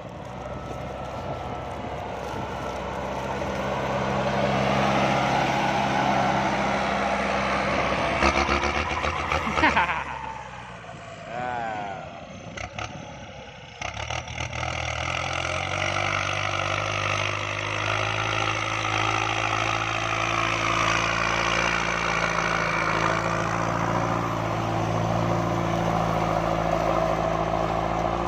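Kubota MU5702 tractor's diesel engine running steadily under load while ploughing. About ten seconds in it drops away for a few seconds, then comes back steady.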